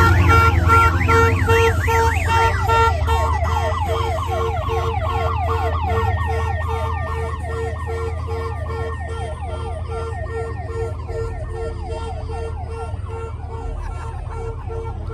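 Electronic siren wailing in a fast repeating yelp over a steady pulsing beep, slowly fading, with a low hum underneath.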